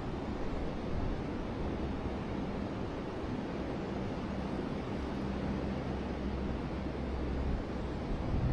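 River water flowing steadily: an even rush with a low rumble underneath.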